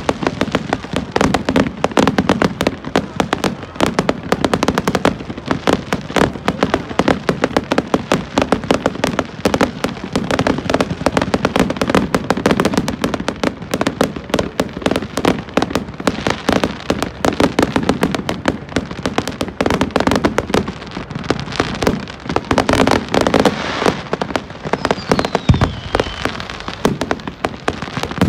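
Fireworks display: a rapid, unbroken barrage of bangs and crackles from bursting shells and ground-fired fountains, with a few thin falling whistles near the end.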